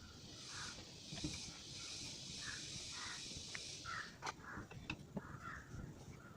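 Birds calling in short repeated calls over a steady high hiss, with a few sharp clicks.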